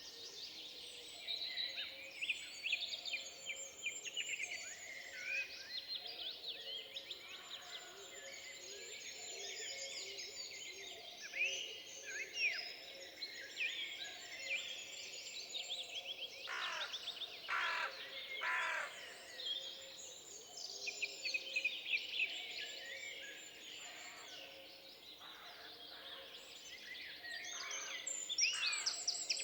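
Many songbirds singing at once in a forest, their chirps and trills overlapping steadily. A few louder repeated notes stand out a little past the middle.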